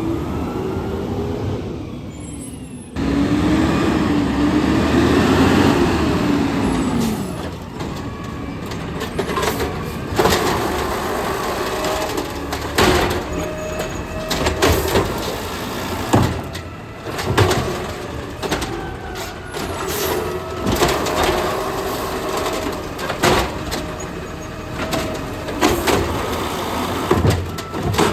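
Garbage truck at work: its engine revs up and falls back, then runs under a steady whine with many sharp knocks and clunks.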